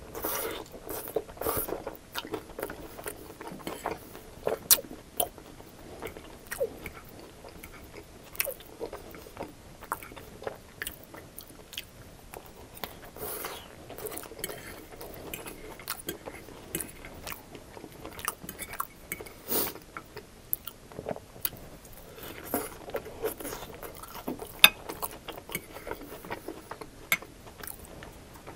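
Close-miked mouth sounds of a man biting and chewing a forkful of coney dog fries: fries topped with chili, cheese, hot dog and onion. Irregular wet chewing runs throughout, with scattered sharp clicks.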